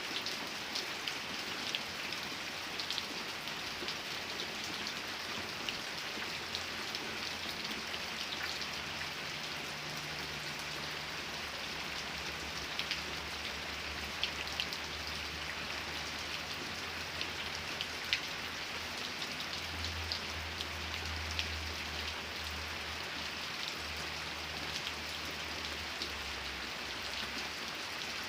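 Steady rain falling, with the patter of individual drops ticking through the hiss. A low rumble comes and goes underneath.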